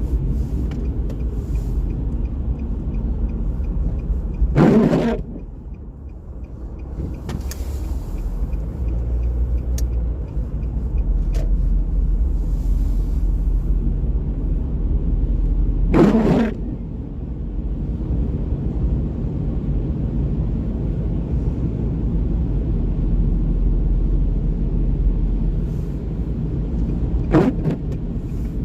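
Car driving on wet city streets: steady low road and engine rumble, with a short swish three times, about eleven seconds apart.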